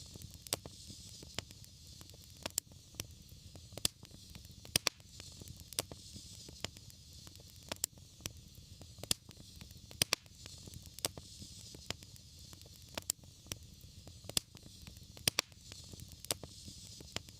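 Wood fire burning, with sharp irregular crackles and pops over a steady low rumble and soft hiss.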